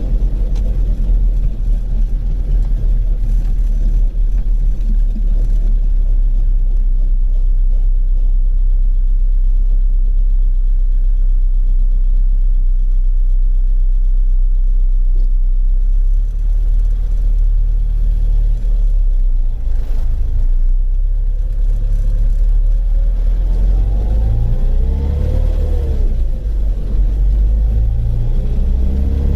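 Rover Mini being driven: heavy low engine and road rumble. In the second half a whine rises and falls in pitch as the speed changes, which may be the abnormal noise that the car is going in for.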